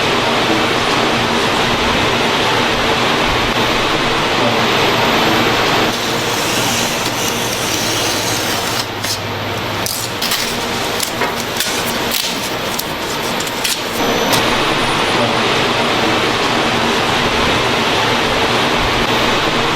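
Factory production machinery running with a loud, steady noise and a faint hum. In the middle the sound changes for several seconds, with a series of sharp clicks, then the steady running noise returns.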